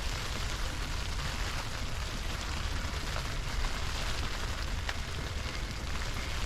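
Strong wind buffeting the microphone, a steady low rumble under an even hiss.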